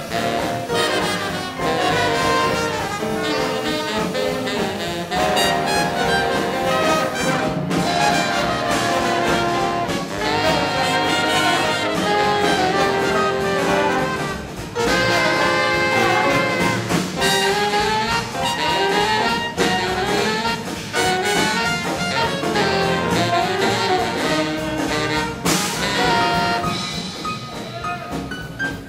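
Big band jazz orchestra playing a hot swing-era number, with trumpets, trombones and saxophones carrying the melody; the band gets quieter in the last few seconds.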